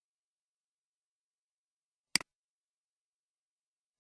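One sharp click about two seconds in, followed at once by a smaller one: a computer mouse button pressed and released.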